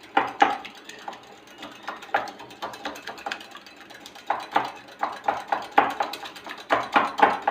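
Eggs and oil being beaten by hand in a bowl for cake batter: quick, uneven clicking of the beater against the bowl, coming thicker in the second half.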